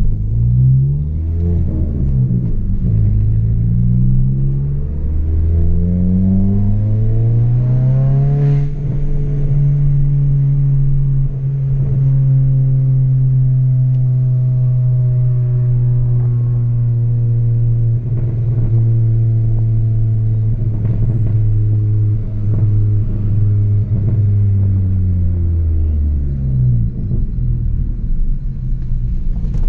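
Chevrolet Astra 2.0's four-cylinder engine through a straight-through exhaust with no muffler, accelerating up through the gears in several short rising pulls with shifts between them. It then cruises with a steady note that slowly sinks, and drops lower near the end as the car slows.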